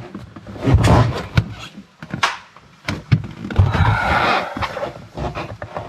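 Handling noises from work on a car's interior: a few sharp knocks and clicks and some dull thuds, with a stretch of scraping or rustling a little before the middle.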